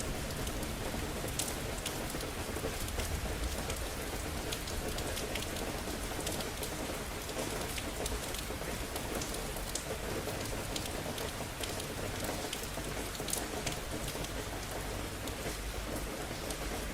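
Steady rain falling on hard surfaces, with scattered sharp drips and a low rumble underneath.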